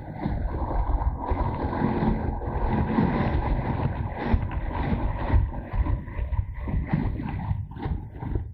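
Motorcycle on the move: wind buffeting the microphone over the engine running steadily.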